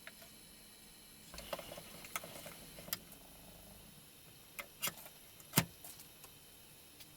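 Wood and tools being handled at a workbench: scattered clicks and knocks, with one heavier thump about five and a half seconds in.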